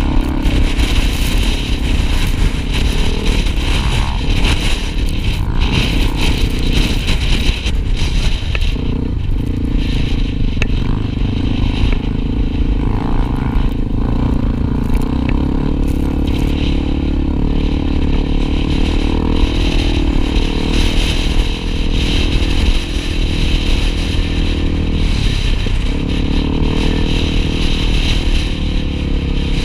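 Honda XR250 Tornado single-cylinder trail motorcycle engine running steadily under way over rough noise. Its pitch dips and recovers briefly a few times.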